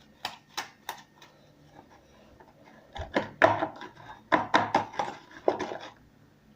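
Homemade borax slime being worked and pulled in the hands, giving short smacking and popping sounds: three a little apart near the start, then a denser run from about three to six seconds in.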